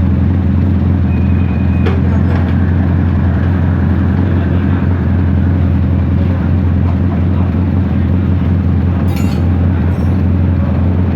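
Freshly overhauled Bajaj CT100's single-cylinder four-stroke engine running steadily, with no change in speed.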